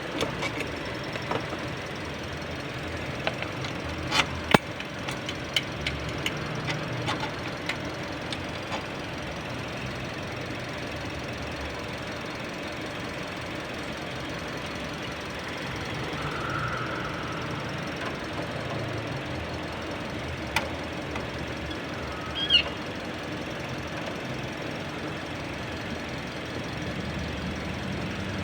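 Toyota Vios engine idling steadily, with a run of sharp clicks and knocks a few seconds in, another click later, and a short high squeak.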